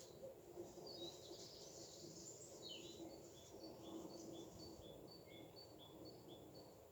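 Faint bird song: a run of short high two-note phrases, the notes alternating between a higher and a slightly lower pitch, about two notes a second through the second half, with a few chirps before it.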